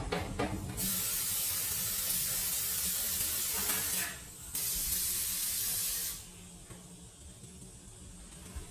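Pressurised spray hissing in two long bursts, the first about three seconds and the second about a second and a half, with a short break between.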